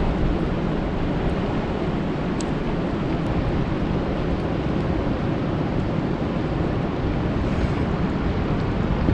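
Steady rain falling on a lake's surface, an even, dense hiss with a few faint sharp drop clicks.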